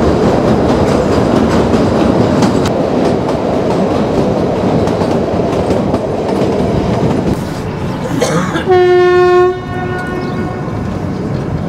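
Kalka–Shimla narrow-gauge toy train running, heard from a carriage: a steady rumble and clatter of wheels on rails that eases a little about seven seconds in. About nine seconds in, the locomotive's horn sounds once, one steady note under a second long that fades away.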